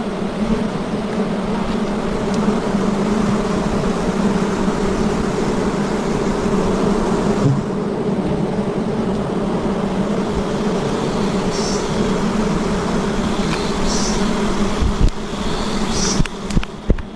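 A swarm of wild honey bees buzzing, a dense steady hum. A few short high chirps come in the second half, and a few knocks near the end.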